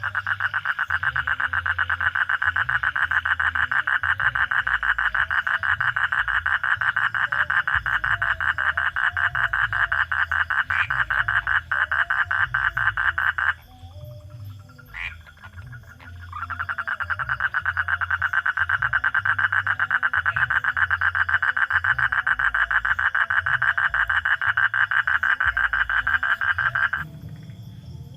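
A frog calling in a rapid, pulsing trill. It comes in two long bouts, separated by a pause of about three seconds around the middle.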